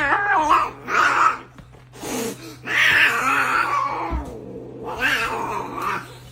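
A cat yowling in several long calls with a wavering pitch, with short pauses between them.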